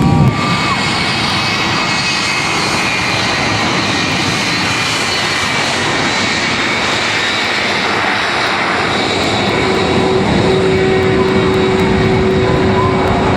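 Jet engines running steadily, a constant roar with a high whine over it; a steady lower tone joins about ten seconds in.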